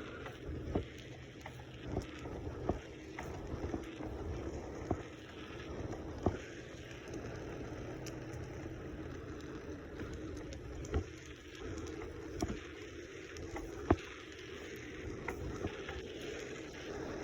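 Wind rushing over the microphone of a camera carried on a moving bicycle, a steady rumbling hiss broken by scattered sharp clicks and knocks.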